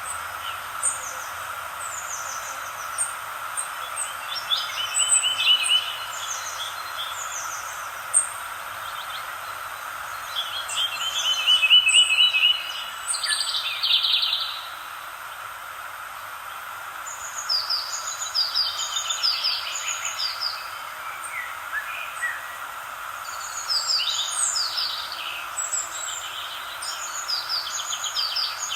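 Several songbirds singing and chirping over a steady hiss, with quick rattling trills about five and eleven seconds in and busy bursts of song again in the second half.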